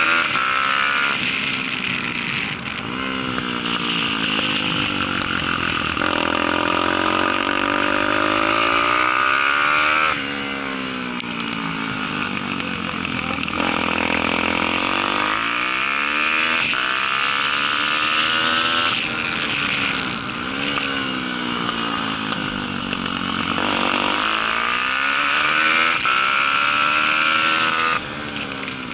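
Daytona 190 four-stroke single-cylinder pit bike engine at race pace. The revs climb repeatedly, then drop away sharply with gear changes and braking into corners.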